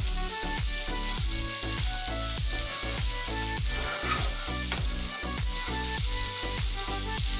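Pieces of chana dal fara sizzling as they fry in a non-stick pan while a spatula stirs and turns them. Background music with a steady beat plays underneath.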